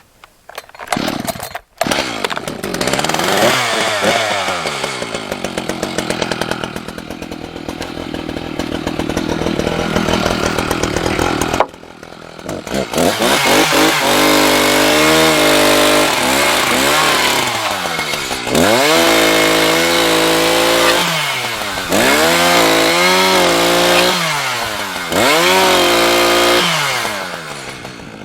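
Chainsaw cutting sawmill scrap pieces into firewood. The engine starts up, runs, eases off briefly around the middle, then bogs down in pitch and climbs again about four times as it goes through successive cuts in the second half.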